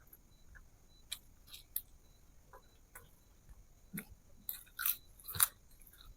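Close-miked mouth sounds of a person eating fish and rice: wet chewing with irregular clicks and smacks, loudest a little past five seconds in.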